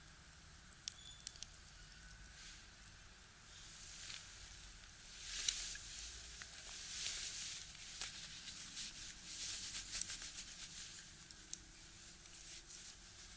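Wood fire burning in a box stove: sharp crackles and pops from the firewood, with a hissing rush that swells from about four seconds in and dies back near the end.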